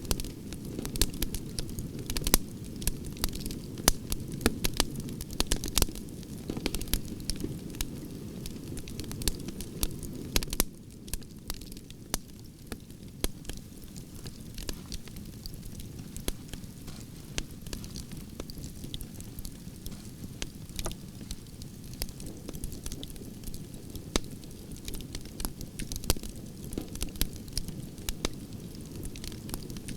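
Wood fire of burning branches crackling, with frequent sharp pops over a low rushing of flames. The low rushing drops away about a third of the way in and builds again near the end, while the pops carry on.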